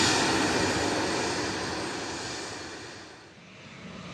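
Jet airliner engine noise fading away as the aircraft passes and recedes; the hiss drops off first and the sound dies down about three seconds in, then aircraft noise builds again near the end.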